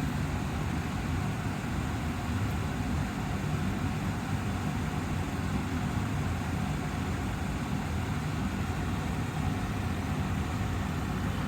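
Austin Air HealthMate air purifier's fan running steadily: an even rush of air over a low hum.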